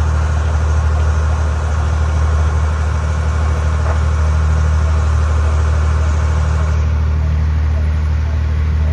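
Passenger boat's engine running steadily, a deep, even drone.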